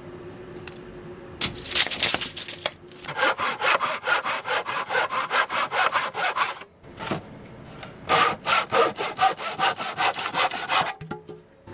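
Hand saw cutting through wood in quick, regular back-and-forth strokes, in two long runs with a short pause between them.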